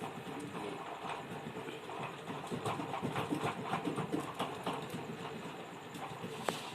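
Irregular small clicks and taps from handling a circuit board while bending and fitting capacitors into place, over a steady background hum, with one sharper click near the end.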